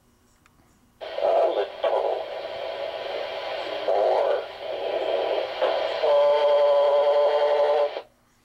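Aircraft radio transmission keyed for about seven seconds: thin, noisy radio audio with no clear words, turning into a steady humming tone near the end before it cuts off abruptly.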